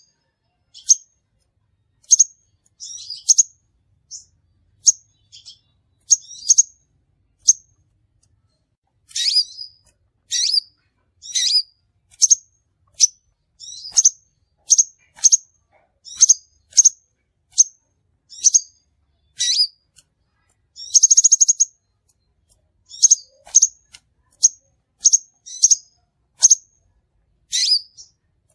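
Crimson sunbird calls played as a bird-luring track: sharp, high-pitched chirps about one a second, some in quick pairs or triplets, with a short buzzy trill about three-quarters of the way through. There is clean silence between the calls and no background noise.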